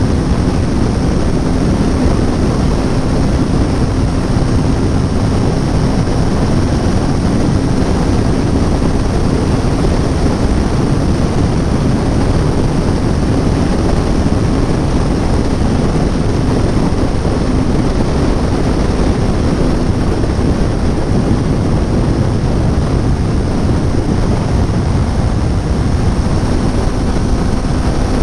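Kawasaki Ninja 400's parallel-twin engine running at a steady cruising speed, a constant drone almost buried under loud, steady wind rush on the rider's microphone.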